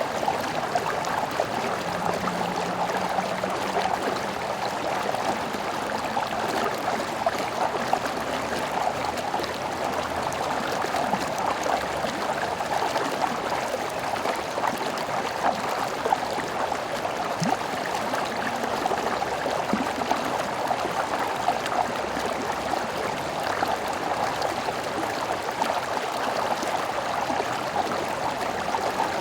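Small stream flowing over rocks: a steady, unbroken babbling and gurgling of water.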